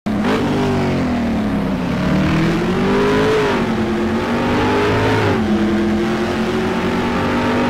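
A car engine revving under acceleration: its pitch climbs for about three seconds, drops, climbs again, drops a little after five seconds in, then holds steady.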